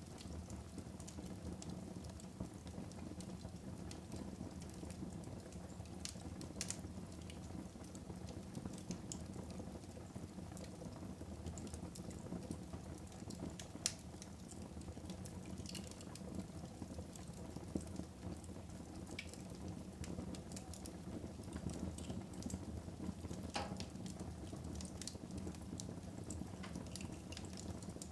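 Wood fire burning in a fireplace: a steady low rumble of flames with scattered sharp crackles and pops, one louder snap about halfway through.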